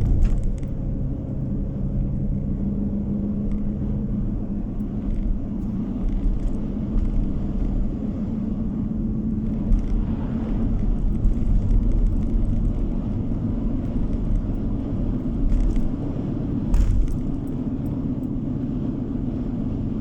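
Road noise of a moving car: a steady low rumble of tyres and engine, with a few brief knocks, one about ten seconds in and a pair near the end.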